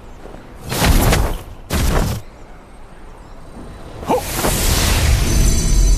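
Animation sound effects: two short whooshing bursts with a deep boom, about a second apart, then a rushing swell that builds from about four seconds in and stays loud.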